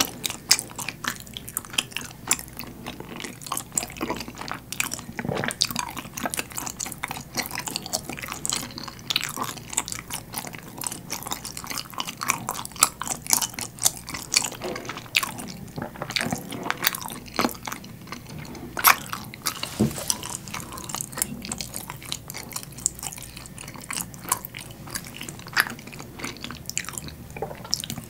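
Close-miked chewing of chewy rice-cake dango coated in a sweet, thick soy sauce. Many irregular sharp mouth clicks and smacks run throughout.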